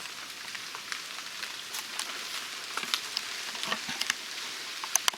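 Rain falling on leaves: a steady hiss with scattered sharp ticks of drops, and a couple of louder taps near the end.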